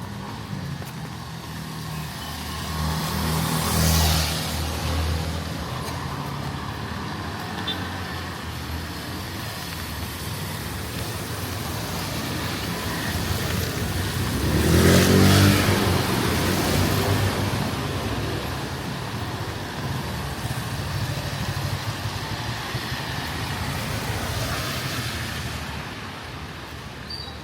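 Street traffic: motor vehicle engines running, with a vehicle passing close about 4 seconds in and another, the loudest, passing about 15 seconds in.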